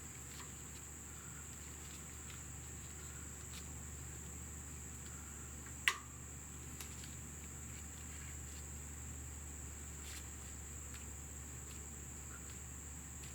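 Faint clicks of metal brake-caliper parts being handled and fitted, with one sharp click about six seconds in, over a steady high-pitched whine and a low hum.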